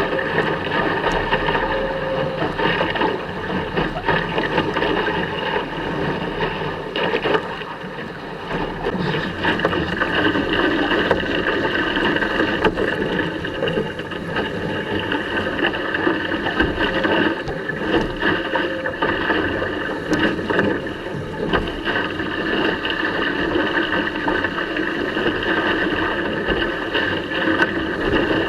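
A sailing dinghy under way in strong wind: a steady rush of water along the hull and wind buffeting the microphone, without let-up.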